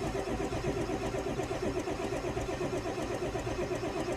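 Starter cranking the 2002 Ford F-250's 7.3-litre V8 diesel in a cold start, with a steady, even churning rhythm, and the engine not catching. The owner suspects the glow plugs are not working; a faulty glow plug relay was later found.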